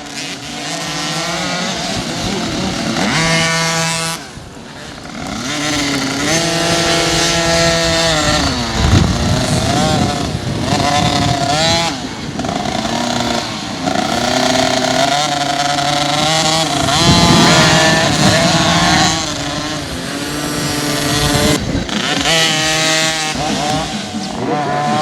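Motocross bike engines revving hard, the pitch climbing and then dropping back at each gear change, over and over.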